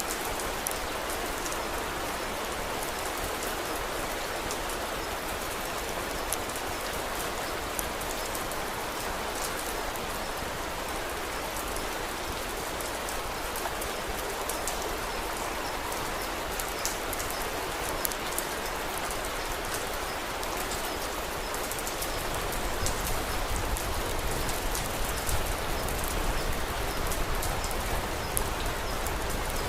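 Steady rain falling, an even hiss scattered with small sharp ticks. About three quarters of the way in, a low rumble comes up underneath and the sound grows a little louder.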